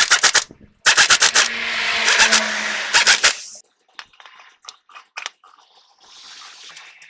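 Air impact wrench hammering in three short bursts, with air hiss between them. Light metallic clicks of tool handling follow.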